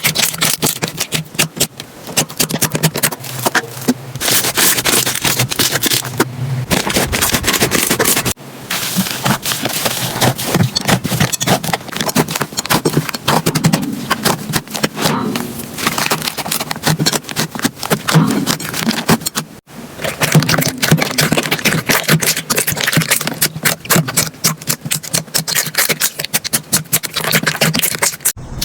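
Slime being squished and pressed by hand, a dense run of sticky clicks and crackles. Several sudden breaks, where one clip cuts to the next, change the sound.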